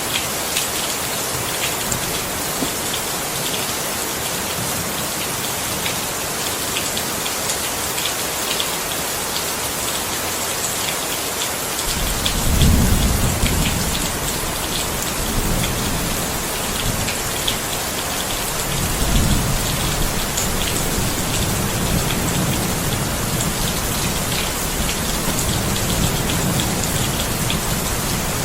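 Steady heavy rain hissing, with individual drops pattering. About twelve seconds in, deep rolling thunder starts and rumbles on in several swells to the end.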